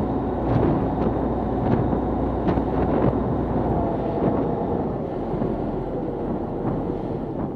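Fishing boat's engine running, with water noise and wind buffeting the microphone. A few light knocks sound in the first three seconds.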